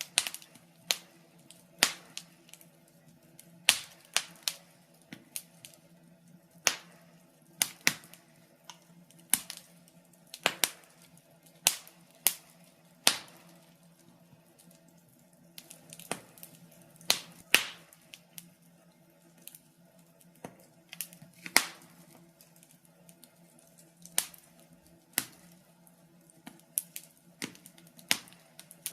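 Wood fire in a fireplace crackling, with irregular sharp pops and snaps at uneven intervals, some much louder than others.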